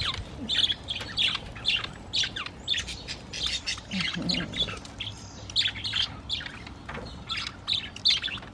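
A flock of budgerigars chattering: many short, overlapping chirps and squawks in a continuous, busy stream.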